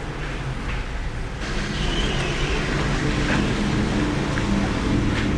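Automatic car wash running: a steady low rumble, joined about a second and a half in by a louder rushing noise that holds.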